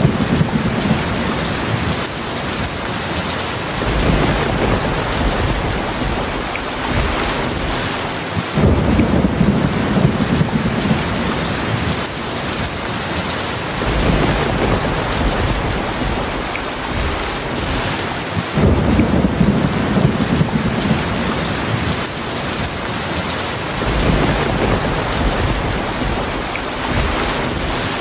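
Heavy rainstorm: a steady, dense hiss of rain, with low thunder rolling in and fading every few seconds.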